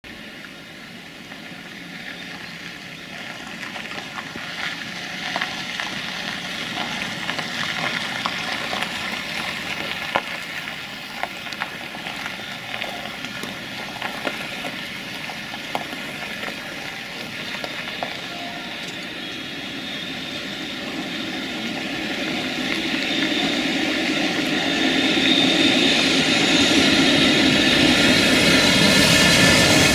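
An EF65 electric locomotive hauling a container freight train approaches on the rails, growing steadily louder as it nears. The wheel-and-rail noise swells towards the end as the locomotive draws alongside.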